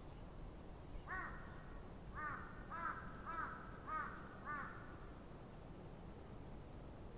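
A bird calls six times: one call about a second in, another a second later, then four more about half a second apart, each a short, harsh, arched note. A steady low background rumble lies underneath.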